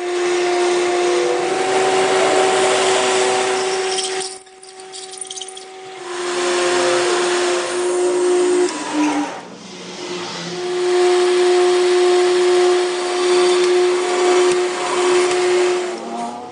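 Power tool working metal: a steady motor whine over a hiss, dropping out twice, about four seconds in and again about nine seconds in, then picking up again.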